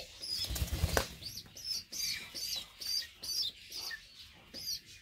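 Small birds chirping over and over, short high-pitched calls about two to three a second. A low rumbling, like wings flapping or handling noise, sits under the calls in the first second.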